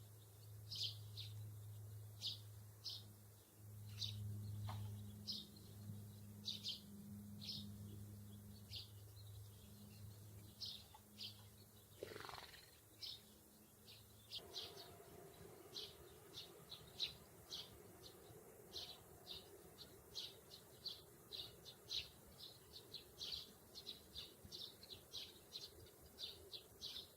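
Small birds chirping: short, high chirps repeated one or two a second, coming faster in the second half.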